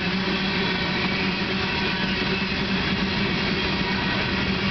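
Loaded coal train's steel-wheeled coal cars rolling past at steady speed: a continuous loud rumble of wheels on rail with a steady low hum.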